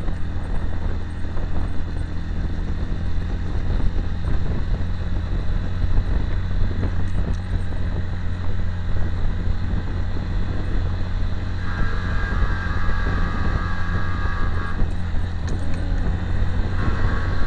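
Direct Bikes DB125-9 motorcycle's 125 cc single-cylinder four-stroke engine running steadily while the bike is ridden, under a steady rush of wind and road noise. A higher steady tone joins in about twelve seconds in for some three seconds, and again near the end.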